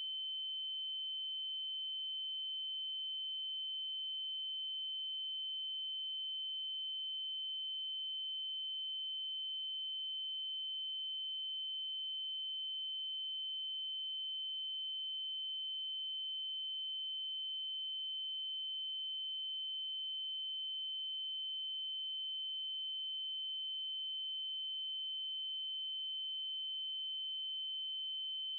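Steady 3072 Hz triangle-wave tone, a single high-pitched unchanging pitch with faint overtones above it.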